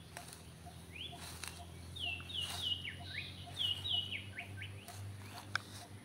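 A bird calling in a run of about ten short, downward-slurred chirps from about one to five seconds in, over the rustle of grass and weeds being pushed aside by hand, with a sharp click about five and a half seconds in.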